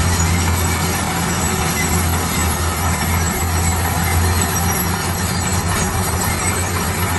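Heavy road construction machine's diesel engine running steadily, a constant low hum under an even mechanical rumble.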